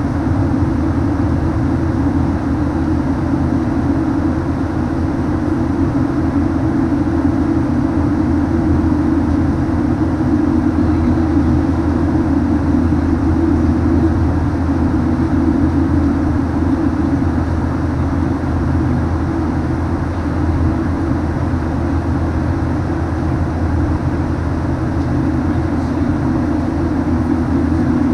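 Steady cabin noise inside a Boeing 737-900 in flight: the even drone of its CFM56-7B engines and the airflow over the fuselage, with a constant low hum.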